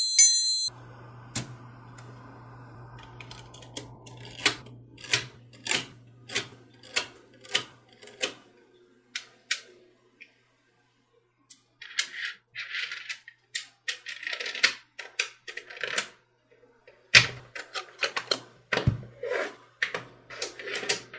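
Small magnetic balls clicking and snapping together as they are handled and fitted into place. First comes an evenly spaced run of sharp clicks about twice a second, then a short pause, then quicker clusters of clicks. A steady low hum sits under the first half.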